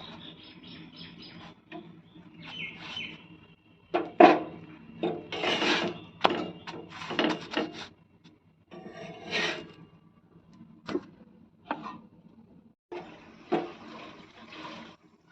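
Kitchen handling sounds from making roti: irregular rubbing and scraping strokes with a few sharp knocks, in uneven bursts separated by short pauses.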